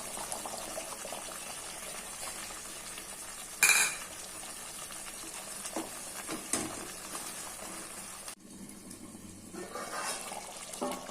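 A spoon stirring and scraping in a pot of chicken simmering in masala and yogurt, over a steady low sizzle. A loud clank of the spoon against the pot comes about a third of the way in, with lighter clinks a few seconds later, and the sound drops away abruptly for about a second near the end.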